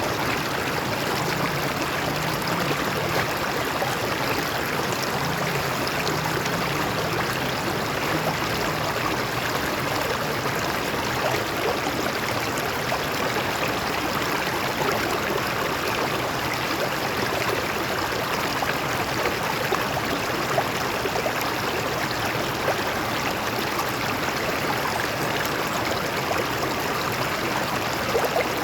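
Stream water flowing and splashing over rocks, a steady rushing noise.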